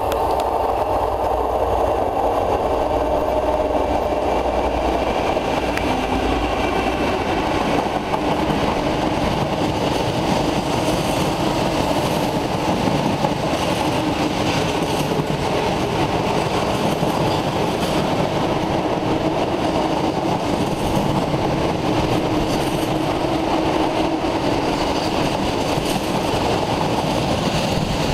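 Diesel-hauled freight train passing close by: the locomotive's engine running as it comes through in the first few seconds, then the steady rumble and rattle of a long rake of empty open box wagons rolling over the rails.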